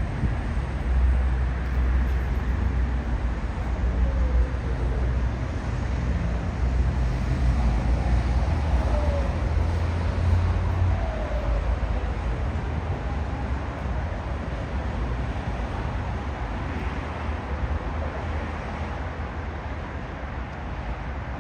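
Road traffic passing. A heavy low rumble fills the first half and eases off after about eleven seconds, with a few faint rising and falling tones from engines.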